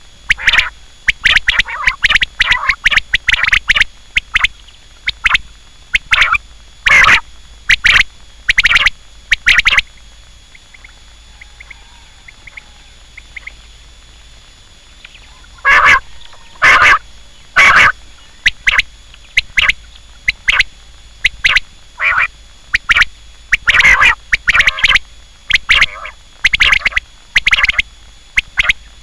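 Quail calling: loud, short, sharp calls repeated in quick clusters, with a pause of about five seconds in the middle.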